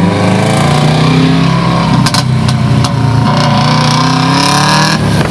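Subaru WRX turbocharged flat-four running through a poorly fitting Wish.com cat-back exhaust, its note dropping and then climbing again, with a few sharp cracks around the middle. It is the worst sounding thing I've ever heard.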